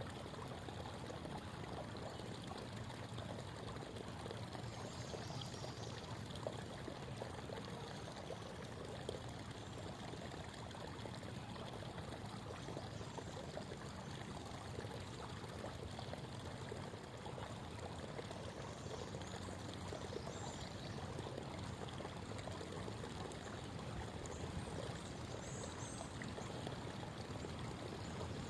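Creek water babbling and flowing steadily over the streambed.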